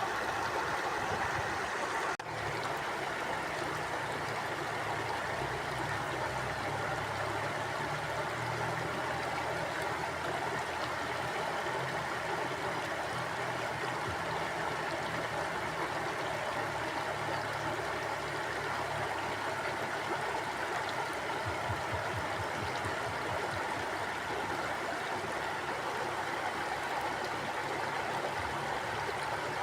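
Mountain stream flowing steadily, with a brief dip in level about two seconds in.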